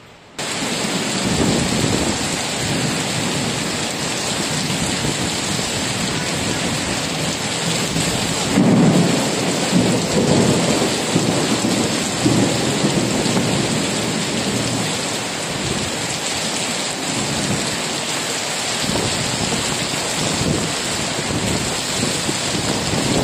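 Heavy tropical downpour: rain pouring onto the street and running off awnings in a steady hiss. Low rumbles of thunder swell under it, loudest about nine seconds in.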